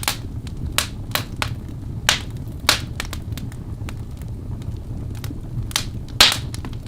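Birch logs burning in a fireplace: irregular sharp crackles and pops over a steady low rumble of the flames, with the loudest pop about six seconds in.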